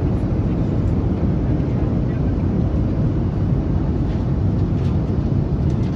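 Steady low rumble of a passenger jet heard from inside the cabin.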